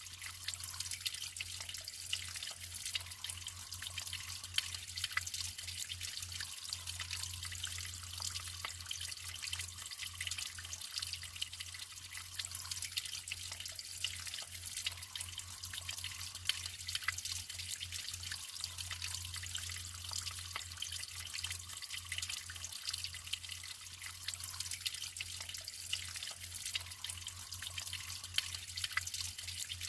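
Natural running water trickling and splashing steadily, with many small drips and splashes over a continuous low hum.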